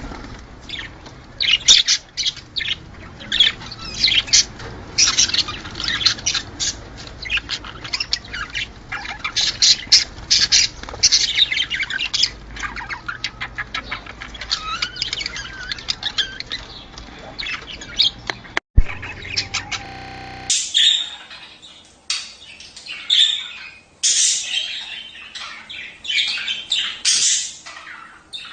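A flock of budgerigars chattering, with rapid overlapping chirps and squawks. About two-thirds of the way through, the sound drops out for a moment and carries on from a second, clearer recording of the same kind of budgie chatter.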